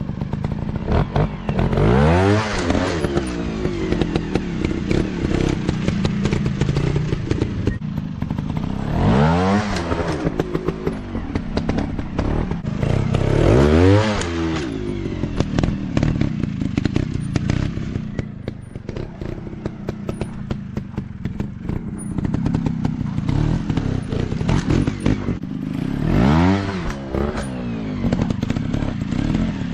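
Off-road dirt bike engines revving up and dropping back in repeated bursts, about every four to five seconds, over a dense rattle of clicks and clatter.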